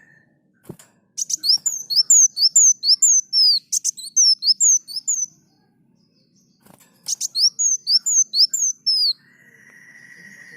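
A sunbird (kolibri muncang) singing: two runs of quick, high sweeping chirps, about three to four notes a second. Near the end it gives a steady held buzzy note.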